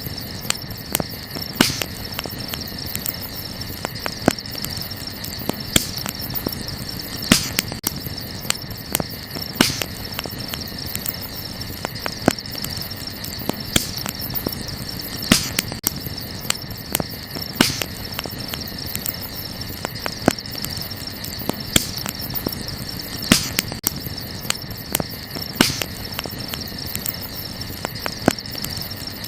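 Wood campfire crackling, with frequent sharp snaps and a louder pop every couple of seconds, over a steady chirring of crickets.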